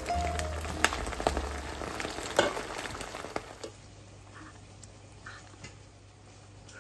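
Meat-stuffed green peppers sizzling in oil in a frying pan, with many small crackles and pops; the sizzling cuts off about three and a half seconds in, leaving quiet room tone.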